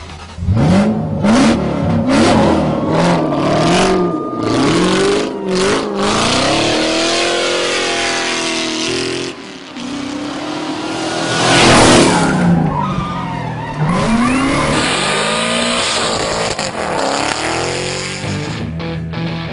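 Vehicle engines revving hard, their pitch climbing and dropping again and again as they shift through gears, with tyre squeal and a loud skid about twelve seconds in.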